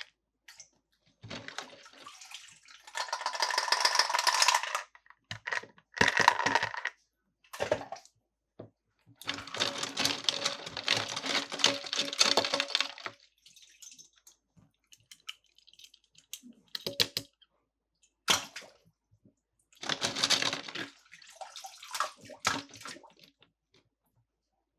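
Toy packaging being handled: bursts of crinkling and crackling plastic with small clicks, the longest about a second in and again near ten seconds, separated by short pauses.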